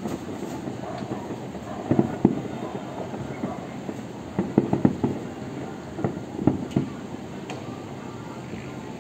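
Distant aerial fireworks shells bursting: sharp low bangs in three clusters, about two seconds, four and a half to five seconds, and six to seven seconds in, over a steady city hum. The bangs stop near the end.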